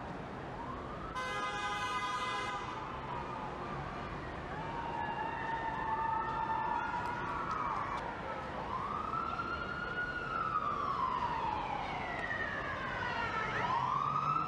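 Whistling fireworks: long whistles that rise and then fall in pitch, several overlapping, with a cluster of falling whistles near the end and scattered crackles in the middle. A steady horn-like blast sounds for about a second and a half near the start.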